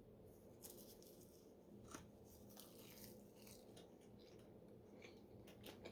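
Faint close-up chewing, with a few soft crunches and brief clicks scattered through it.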